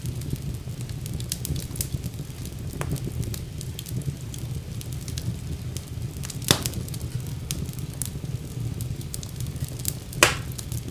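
Wood fire burning in a fireplace: a steady low rumble of the flames under frequent sharp crackles, with two louder pops, the last a brief hiss.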